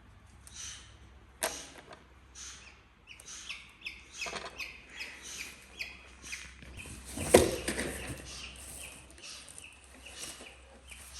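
Eaglet chirping in a run of short, repeated high calls, with one sharp knock a little past seven seconds in.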